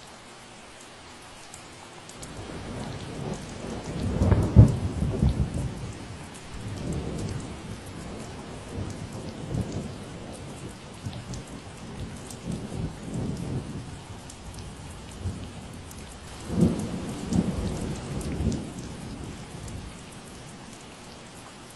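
Steady rain with a long roll of thunder. The thunder starts about two seconds in, is loudest about four seconds in, rumbles on, swells again near the end and then dies away under the rain.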